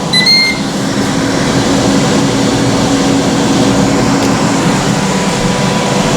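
Ninja air fryer's fan running with a steady whir, and a short pair of electronic beeps from the appliance just after the start.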